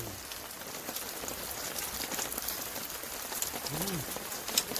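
Steady rain, with a short hummed vocal sound, rising then falling, about four seconds in and a sharp click near the end.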